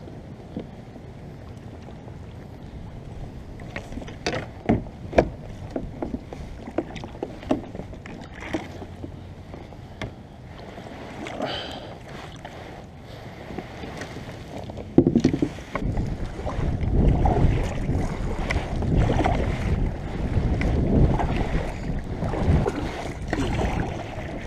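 A kayak being paddled, with paddle strokes in the water and scattered knocks against the hull. About halfway through, wind buffeting the microphone comes in loudly.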